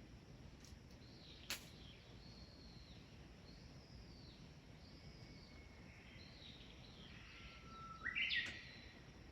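Birds calling in a quiet outdoor setting: a short arching call repeats about once a second, and a louder call climbs in steps near the end. There is a single sharp click about a second and a half in.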